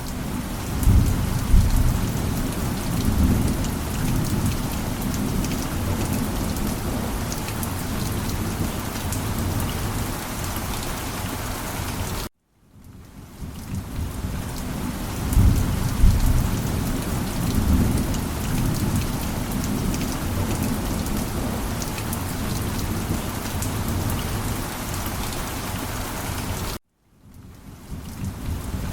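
Steady rain with low rolling thunder rumbles swelling about a second or two after each start. The sound cuts off abruptly twice, about twelve and twenty-seven seconds in, and fades back in each time: a short rain-and-thunder loop repeating.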